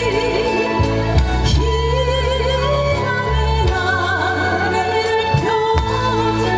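A woman singing a Korean song with vibrato on her held notes, over instrumental accompaniment with a steady bass line.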